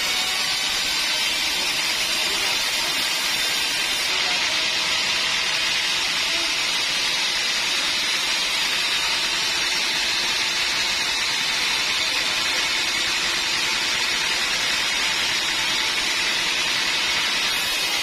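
Sawmill saw running steadily, a loud, even, hiss-like noise that does not change.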